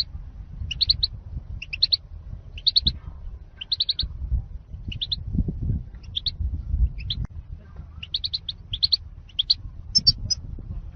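European goldfinch calling: short groups of two to four quick rising chirps, repeated about once a second, the 'zalzal' call used as a lure for trapping goldfinches. A low rumble runs underneath.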